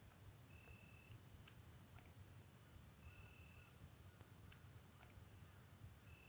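Near silence: a faint, steady high-pitched insect trill, with a short faint chirp about every three seconds.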